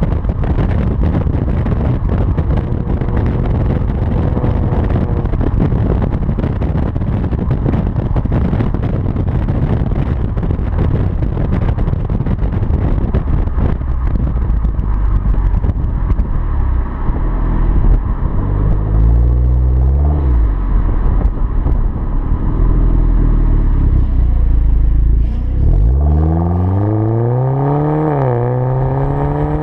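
Hyundai Genesis with a Tsudo aftermarket exhaust. For most of the time the exhaust and engine give a rough, noisy rumble with wind on the microphone. A little past the middle the engine revs up and back down briefly, and near the end it accelerates: the pitch climbs, drops once as if at a gear change, and climbs again.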